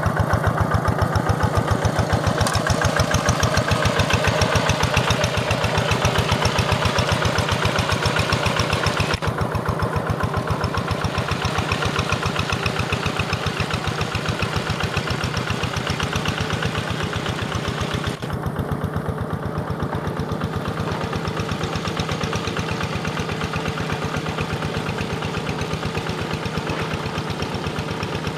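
Quick G1000 hand tractor's single-cylinder diesel engine chugging steadily with an even beat while it works a flooded rice paddy.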